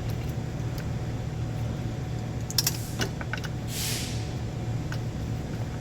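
A steady low machine hum with a few sharp metallic clicks and rattles of engine parts and connectors being handled, and one short hiss about four seconds in.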